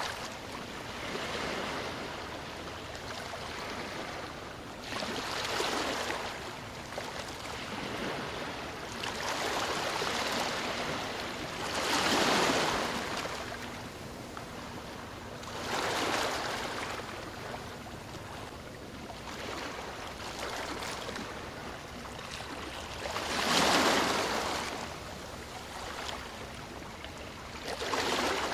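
Ocean waves washing in on a shore, each wave swelling and falling away every few seconds; the two largest break about twelve and twenty-four seconds in.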